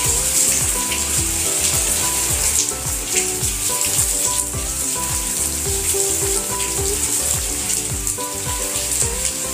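Besan-coated banana slices sizzling as they shallow-fry in oil in a pan, a steady hiss. Background music with a regular beat plays under it.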